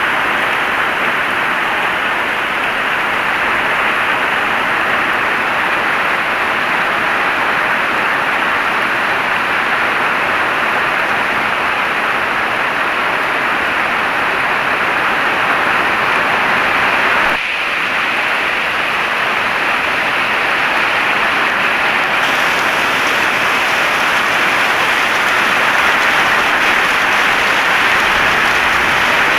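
Heavy rain falling steadily, a dense even hiss of drops, with a brief dip in level about two-thirds of the way through.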